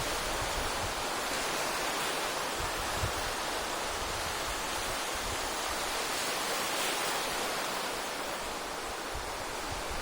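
Steady hiss of sea waves washing onto the shore, an even wash of surf without distinct breaks.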